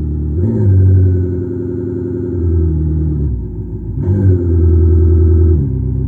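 Simulated BMW X6M exhaust note with an RP Stage 2 exhaust, played through an electronic exhaust speaker on a Toyota Prius PHV. It rises sharply in pitch and level twice, about half a second and about four seconds in, holds for a few seconds each time, then drops back to a lower steady note.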